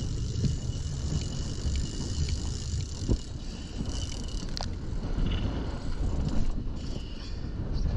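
A boat at sea: a steady low rumble with a faint, steady high whine above it and a few small knocks.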